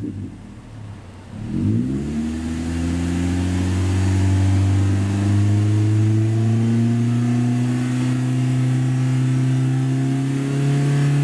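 Toyota 80-series Voxy's 2.0-litre four-cylinder petrol engine through a bass-heavy one-off exhaust with a 110 mm straight rear section: low and quiet for about a second and a half, then revved up quickly and held at high revs, the pitch still creeping up.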